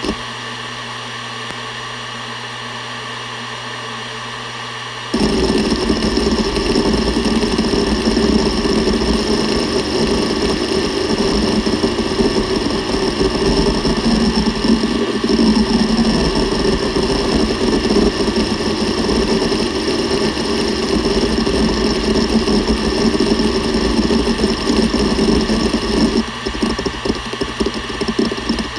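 Seagate Barracuda ES.2 ST31000340NS 7200 rpm hard drive: the spindle spins with a steady hum for about five seconds, then the head actuator starts seeking rapidly in a dense, continuous chatter over the hum, easing a little near the end.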